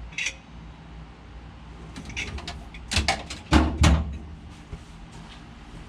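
Hard objects being handled in a workshop: a quick run of knocks and clinks about two to four seconds in, loudest near the end of that run, over a low steady hum.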